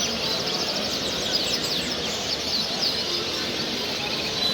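Many small caged show birds chirping and twittering at once, a dense, steady chorus of quick high chirps.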